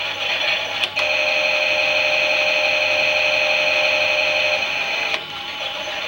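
Klein toy Miele washing machine running, a small motor's whirring and rattling; about a second in a click starts a steady pitched hum that cuts off with another click about five seconds in.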